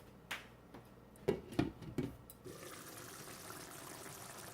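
A few light clinks and knocks in the first two seconds or so, then a steady faint hiss of a pan of chicken liver and fenugreek leaves simmering.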